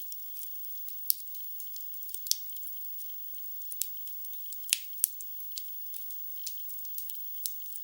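Burning wood logs crackling in a fireplace: irregular sharp pops and snaps over a faint hiss, with the loudest pops about a second in and a close pair near the middle.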